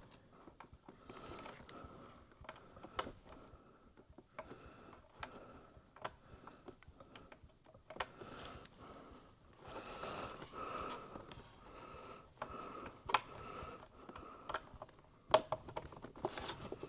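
Faint, scattered small clicks and light taps of hands working on an opened iMac, with a few sharper clicks, as the display cable connectors are plugged back in.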